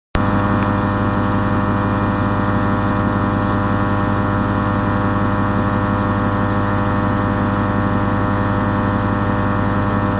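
Suzuki Escudo's engine running at steady revs while the vehicle drives along: a constant drone that holds one even pitch throughout.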